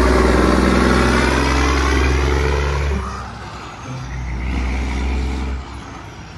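A heavy truck engine running with a loud, deep low rumble and a sweeping hiss above it, like a vehicle going by. It drops in level about three seconds in.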